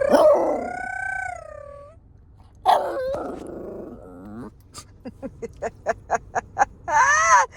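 Dog vocalising in long, wavering whining howls, with a sharper cry about three seconds in. A quick string of short sharp sounds follows, and another whine near the end.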